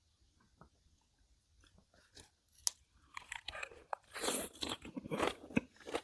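Close-miked chewing of food in the mouth: faint small clicks at first, then from about halfway in a steady run of loud, wet, crunchy chewing.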